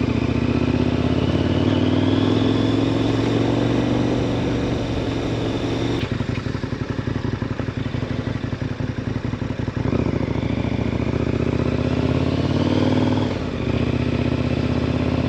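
KTM 1090 Adventure R's 1,050 cc LC8 V-twin engine running as the bike rides along. About six seconds in, the steady note drops to a choppier, slower beat for roughly four seconds, then evens out again. There is a brief dip near the end.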